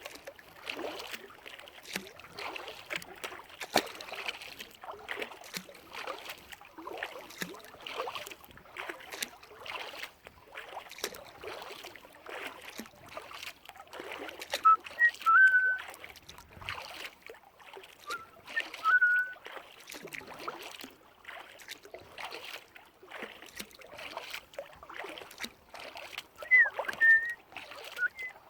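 Kayak paddle dipping and splashing in lake water in a steady stroke rhythm, about once a second. Three short high whistled notes cut in, one in the middle, one a few seconds later and one near the end, and are the loudest sounds.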